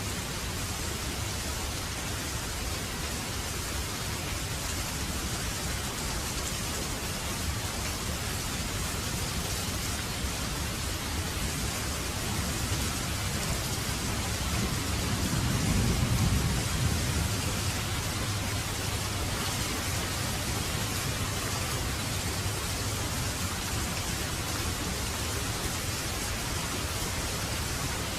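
Heavy rain falling steadily, with a low roll of thunder that swells and fades about halfway through.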